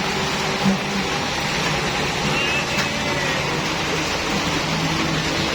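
Steady vehicle noise with a constant hiss, with faint low engine-like hum underneath.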